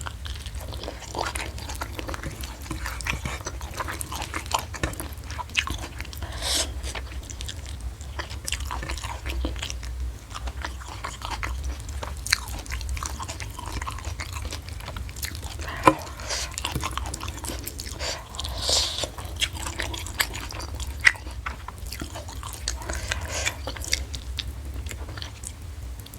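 Close-miked eating sounds from a meal of fried fish and raw vegetables: biting, chewing and crunching, with scattered sharp mouth clicks at an irregular pace, over a steady low hum.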